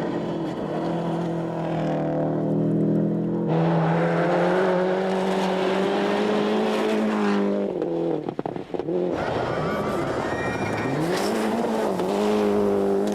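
Rally car engine at full throttle on a special stage, its revs holding then stepping through gear changes; about 8 seconds in the note breaks off briefly as the driver lifts, then the revs rise and fall quickly.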